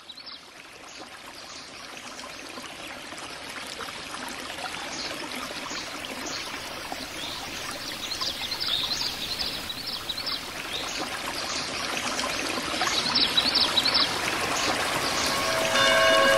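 Rushing water growing steadily louder, an even wash of noise with no words over it.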